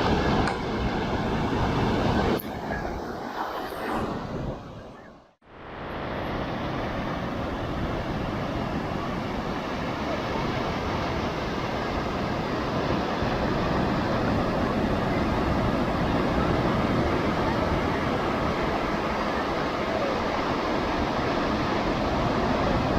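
Sea waves breaking on a rocky shore: a continuous rush of surf. About five seconds in the sound fades out to silence and then rises back to a steady level, a joint between two recordings.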